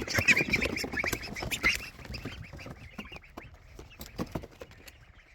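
A flock of young poultry rushing to fresh food and water, many overlapping excited calls with scattered sharp clicks and taps. The calls are loudest in the first two seconds and then thin out and fade.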